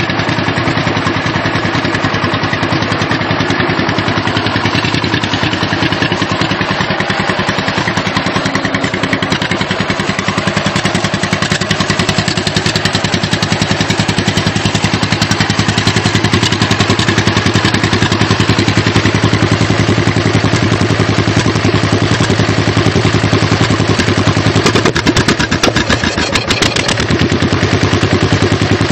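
1958 John Deere 420C crawler's two-cylinder engine running after its first startup, with a steady run of rapid, even firing pulses that gets a little louder in the second half.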